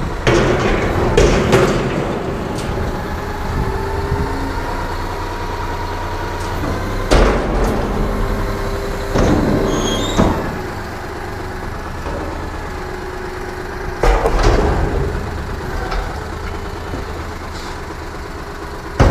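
Recycling collection truck's engine running with a steady low rumble and faint steady tones over it. Several loud clanks and bangs come through it, near the start and about seven, nine, ten and fourteen seconds in.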